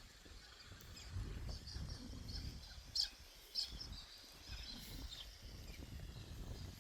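Small birds chirping, a few short high calls now and then, over a steady low rush of outdoor background noise.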